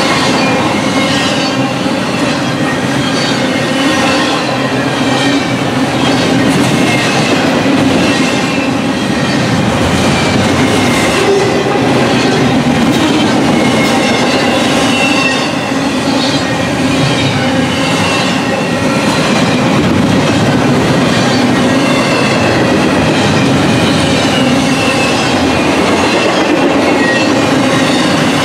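Double-stack intermodal freight train's well cars rolling past: a loud, steady rumble of steel wheels on rail, with scattered clacks and a faint, wavering high wheel squeal.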